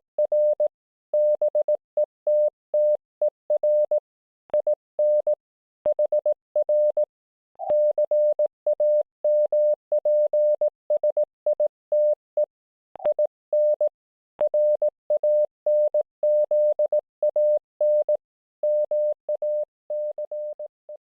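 Morse code (CW) from an IC-705 amateur radio transceiver on the 7 MHz band: a single medium-pitched beep keyed on and off in dots and dashes, with a couple of short pauses between groups.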